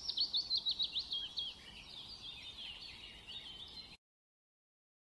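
Birds chirping in a quick series of short, high, falling notes, cutting off to dead silence about four seconds in.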